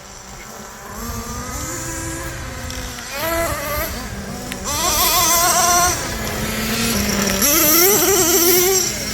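Small two-stroke glow-fuel engines of nitro RC monster trucks, revving up and down as the trucks are driven. The pitch climbs sharply about three seconds in and again around five seconds, with the loudest bursts of throttle near the middle and toward the end.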